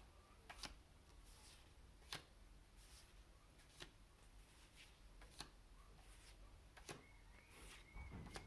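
Near silence: quiet room tone with a few faint, soft clicks spread through it.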